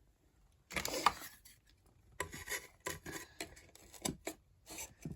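Painted wooden cutout pieces being handled and rubbed against each other: a few short rasping scrapes, the loudest about a second in.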